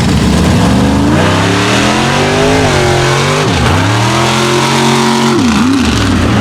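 Mega truck engine accelerating hard off the line on a mud racing run, loud, its pitch climbing and then dropping sharply twice, about three and a half and five and a half seconds in.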